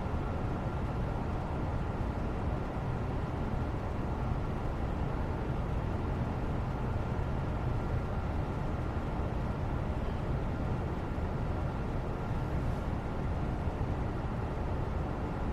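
Steady low rumbling background noise with a faint steady hum and no distinct events.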